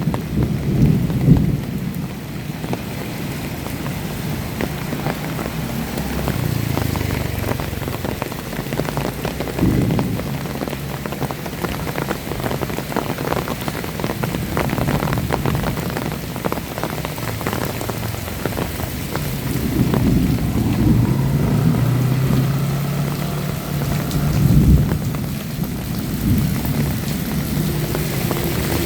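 Heavy rain falling steadily, with many drops pattering on surfaces, and low rumbles of thunder near the start, about two-thirds through and near the end.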